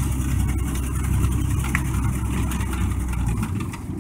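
Ford 300 cubic-inch inline-six engine of a 1985 Ford F-150 running steadily while the truck plows deep snow, its low drone easing off shortly before the end. A single short click sounds about halfway through.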